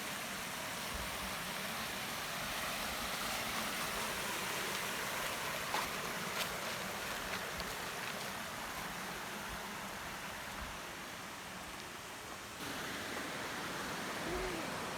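Steady rushing of a mountain river or stream's running water, with a few faint knocks around the middle and a slight rise in level about two-thirds of the way through.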